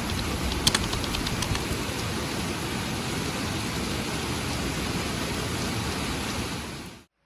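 Rain falling steadily, with a few sharp drip taps about a second in; the sound cuts off abruptly near the end.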